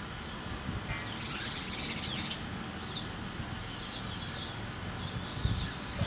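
A bird chirping in runs of short, high chirps, with a low knock near the end.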